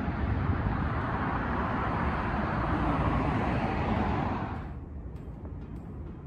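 A vehicle passing close by: a loud rush of road noise that starts abruptly and fades away after about four and a half seconds.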